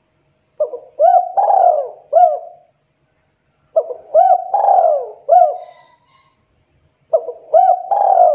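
Spotted dove cooing. It gives three phrases of several short coos, each phrase built around one longer drawn-out coo, repeated about every three seconds.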